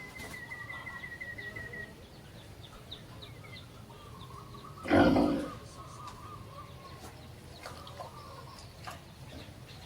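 A short, loud farm-animal call about five seconds in, over small birds trilling and warbling.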